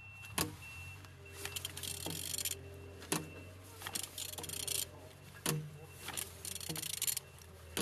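BMW N47D20 four-cylinder diesel engine being turned over by hand: sharp metallic clicks and a hiss of air every couple of seconds as the crankshaft rotates. It turns freely and is not seized.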